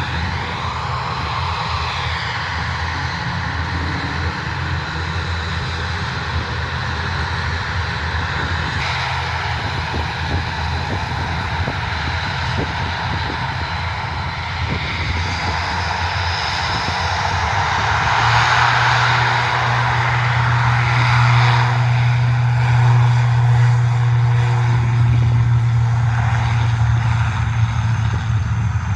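Twin turbofan jet engines of an Embraer E190 airliner running with a steady rumble and whine, growing louder about two-thirds of the way through.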